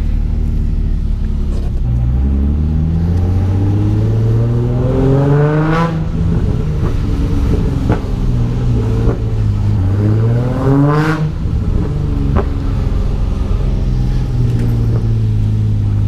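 Nissan 350Z's V6 revving as the car is spun in donuts on wet pavement: the engine note climbs steadily for a few seconds, drops back, then climbs and drops again near the middle, running steadily between.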